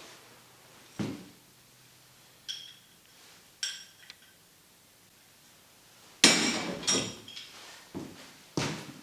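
A knock, then two short ringing clinks of hard objects being handled, then from about six seconds in a quick run of loud knocks and clatter.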